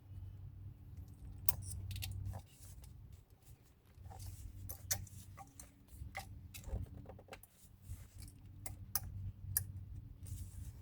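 Scattered light metallic clicks and taps of brake pad retainer clips and pads being fitted into a front brake caliper bracket, over a low steady hum.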